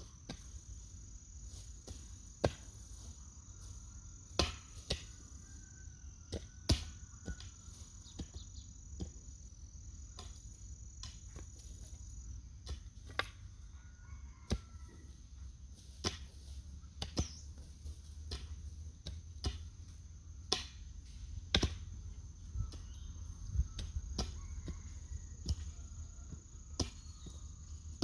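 Sharp knocks at uneven intervals, roughly one a second, over a steady high-pitched whine and a low rumble.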